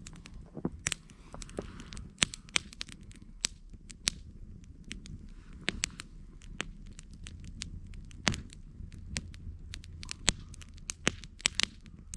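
Wood campfire crackling: irregular sharp snaps and pops over a low steady rumble.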